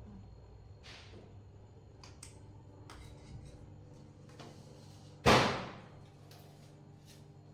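A single sharp bang about five seconds in, fading over half a second, with a low steady hum and a few faint clicks around it.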